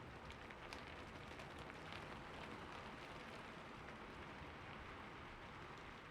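Steady rain falling on a rooftop, a continuous hiss of rain with many small drop ticks scattered through it.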